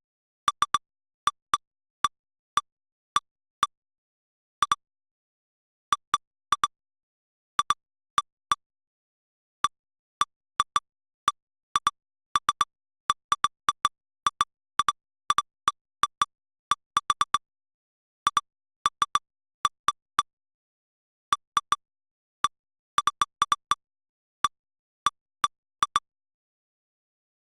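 Short electronic blips, single or in quick clusters of two to four at irregular intervals, with dead silence between: software alert sounds marking detected lightning strikes as the lightning detector's 24-hour history replays.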